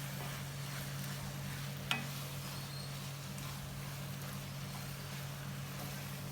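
Chicken pieces sizzling gently in onion-tomato masala in a pan as they are stirred, with one sharp spatula knock against the pan about two seconds in. A steady low hum runs underneath.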